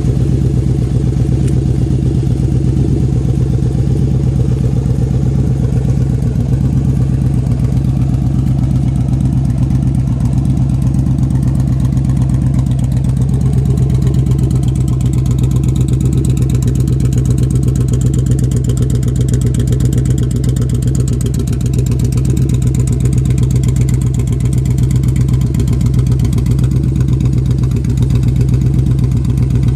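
Yamaha Drag Star 1100's air-cooled V-twin idling steadily through a Cobra aftermarket exhaust, a deep, even pulsing beat.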